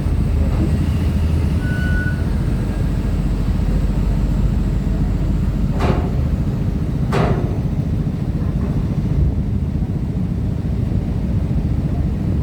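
Steady low rumble of truck and car engines as vehicles board a ferry, with two sharp knocks a little over a second apart midway through.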